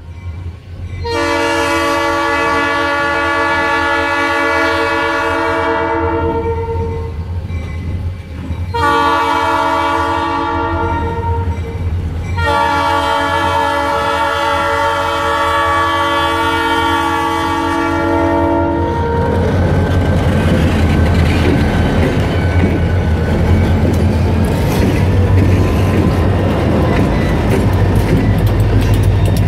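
Multi-tone air horn of an EMD SD40-2 diesel locomotive sounding at a grade crossing: a long blast, a shorter one, then another long one. About two-thirds of the way in the horn stops and the locomotive passes close by, its 16-cylinder two-stroke diesel engine rumbling and the wheels clicking over the rail joints.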